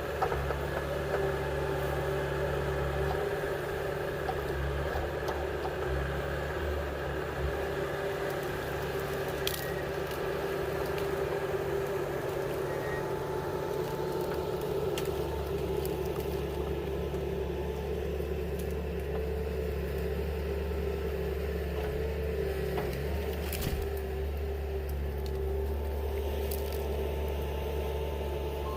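An engine running steadily at constant speed, with a few faint clicks over it.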